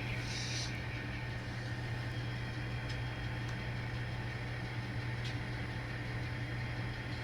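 Steady low hum with a short high hiss just after the start and a few faint light clicks.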